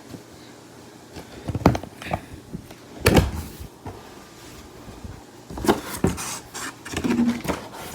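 Cardboard shipping box being opened and handled, with several knocks and scrapes of cardboard; the loudest knock comes about three seconds in.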